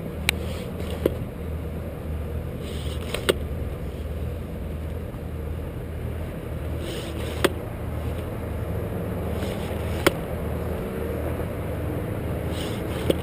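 An engine running steadily with a low hum, with a few sharp clicks spread through it.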